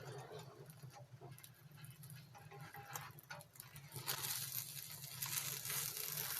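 Light tapping and scraping of a spatula in a frying pan as an omelet is folded, over a steady low hum. About four seconds in a steady hiss rises.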